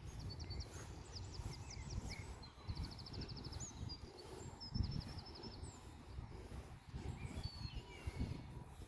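Small songbirds singing outdoors: high thin phrases and chirps, including one fast run of rapidly repeated notes about three seconds in, over a steady low rumbling background noise.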